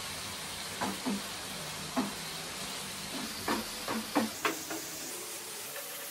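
Small prawns frying in hot oil in a pan, a steady sizzle, with a wooden spatula stirring them and knocking against the pan about seven times.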